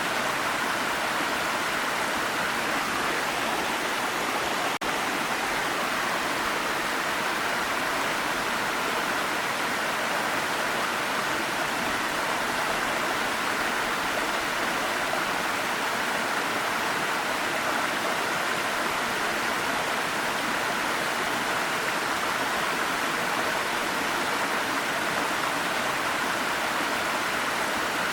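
Waterfall, a steady rush of falling water, with a brief dip in level about five seconds in.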